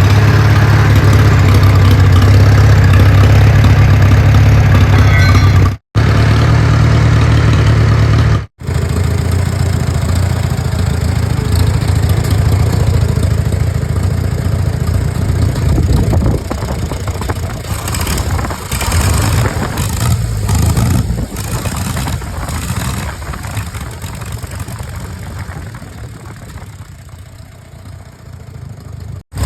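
1942 Farmall A's four-cylinder engine running steadily. The sound cuts out briefly twice and gradually gets quieter over the second half.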